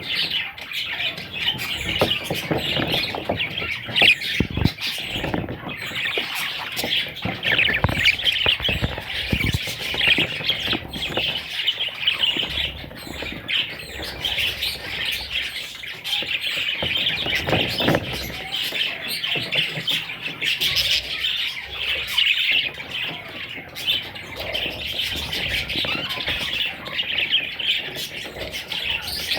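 Budgerigars chattering and chirping without a break, a dense warble of many short high chirps, with scattered soft knocks.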